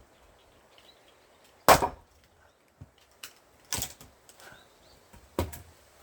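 Large forged axe striking a knotty pine log three times, about two seconds apart, the first blow the loudest, with a few lighter knocks between.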